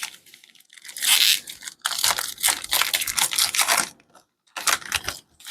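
Hockey card pack wrapper being torn open and crinkled: dense crackling for about three seconds, then a shorter crinkle near the end.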